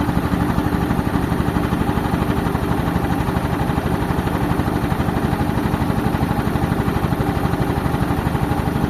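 Tractor diesel engine running steadily while driving an air compressor, with a fast, even pulsing.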